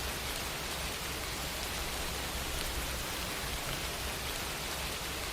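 Steady, even background hiss with nothing else over it.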